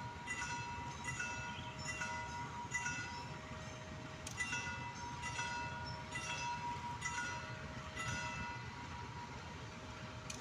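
A CC 203 diesel locomotive hauling a passenger train approaches with a low rumble. Over it runs a steady high tone with short tones at several pitches repeating about every half second.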